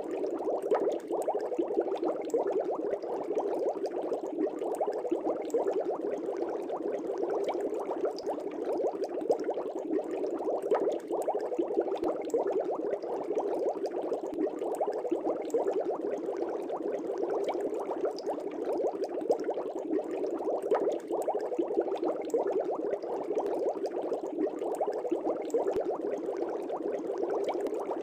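Fish tank bubbles: a steady, dense bubbling and gurgling of air rising through aquarium water, with many small pops.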